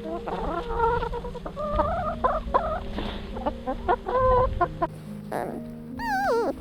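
Chickens clucking: a series of short pitched calls over about four seconds. Near the end a longer, wavering call falls in pitch.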